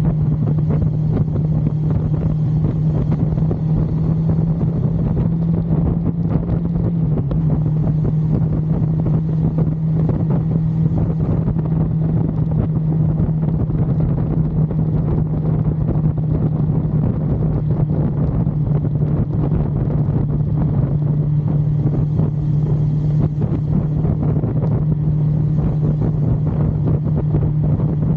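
1982 Suzuki GS550L's air-cooled inline-four engine running steadily at highway cruising speed, with wind rushing over the microphone.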